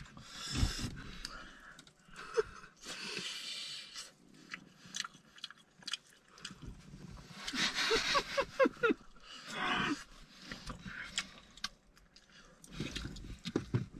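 Close chewing and biting into hot fried chicken wings, with breathy hissing between bites and a few short murmured voice sounds about halfway through.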